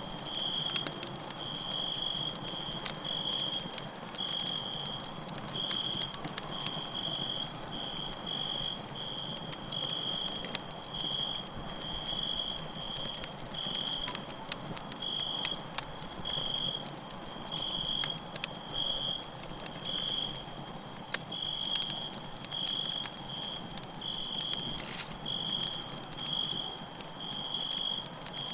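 Campfire crackling and popping with irregular sharp snaps, over crickets chirping in short high trills about once a second.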